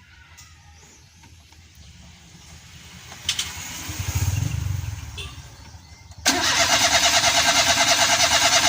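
Car engine being cranked by its starter without catching: a brief low rumble about four seconds in, then a loud, rhythmic cranking of about three and a half seconds at roughly seven beats a second. The engine turns over but will not start, even with a freshly repaired ECU fitted.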